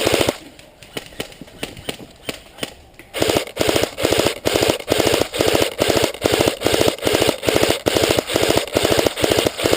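Airsoft electric guns firing on full auto, a rapid mechanical rattle of shots. A short burst comes right at the start with scattered single shots after it, then from about three seconds in a steady run of short rapid bursts, about two a second.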